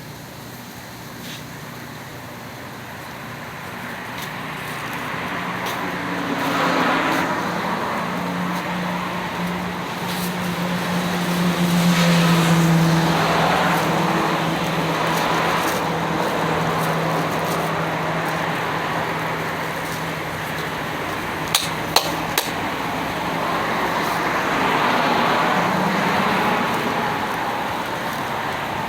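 Road traffic: vehicles passing, each a swell of engine and tyre noise that rises and fades, over a steady low engine hum. Three sharp clicks come close together about three-quarters of the way through.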